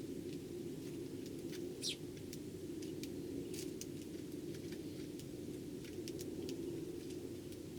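Eurasian tree sparrows giving scattered short chirps and light ticks, with one louder chirp about two seconds in, over a steady low hum.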